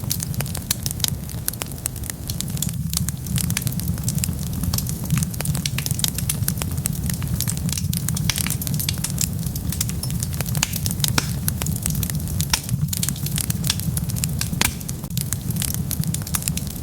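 Wood fire burning in a fireplace: a steady low rumble of flame with frequent sharp crackles and pops from the burning wood.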